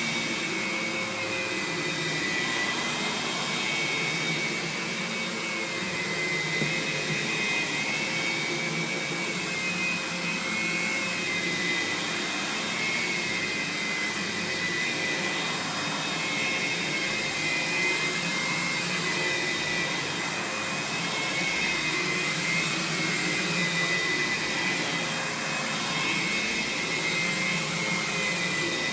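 Aerus Lux Guardian upright vacuum running, its dual-motor design with an 8.5-amp suction motor giving a steady high whine that wavers slightly in pitch, over a constant rush of air.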